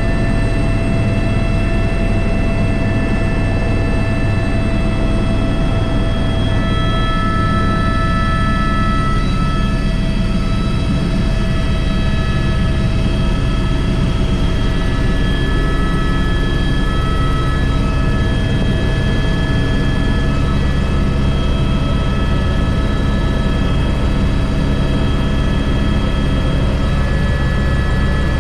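Airbus H125 (AS350 B3) helicopter in flight, heard from the cockpit: a steady, loud rumble of turbine and main rotor with several steady whining tones above it.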